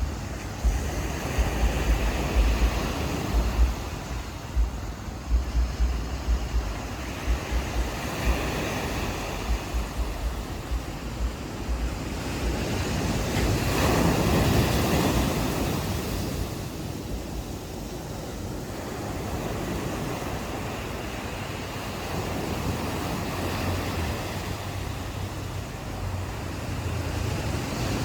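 Ocean waves washing onto a beach, one wave swelling and breaking louder about halfway through. Wind buffets the microphone in gusts during the first half.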